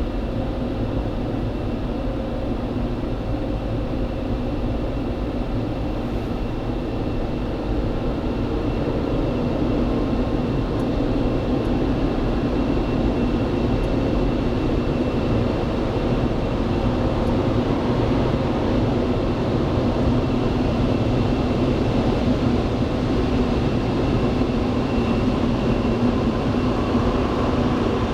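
Automatic car wash machine running: a steady mechanical drone with a faint high whine, growing a little louder about eight seconds in and again around sixteen seconds.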